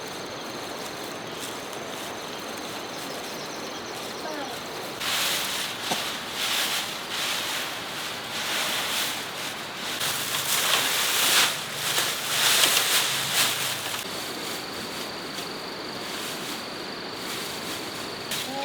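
Insects trilling with a steady high-pitched tone near the start and again near the end. In the middle, a stretch of irregular rustling or scraping noise is louder than the insects.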